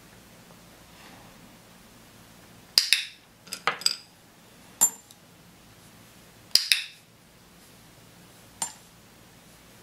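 A training clicker clicks twice, about four seconds apart, each click followed by a few light clinks and knocks of small hard objects on a tabletop, with single taps in between.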